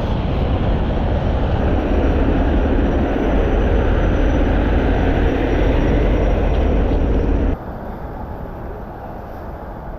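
Heavy wrecker's diesel engine running hard at high revs while it winches a heavy load on its 7/8-inch wire rope, a loud steady rumble. About three-quarters of the way through it drops abruptly to a much quieter steady background.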